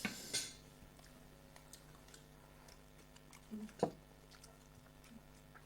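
Person eating panta bhat (watery fermented rice) with fish: quiet chewing and small clicks. There is a short noisy sound at the start and a sharper knock about four seconds in.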